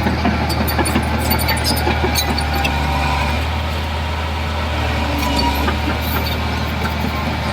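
Heavy diesel engine of earthmoving machinery running steadily with a low hum, with scattered sharp metallic clinks, most of them in the first few seconds.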